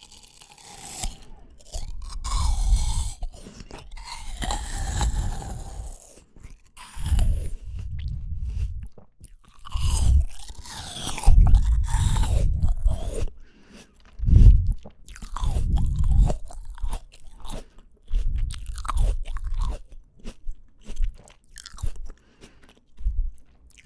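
Close-miked chewing of raw fruit: crunchy, wet bites and chewing in irregular bursts with short pauses.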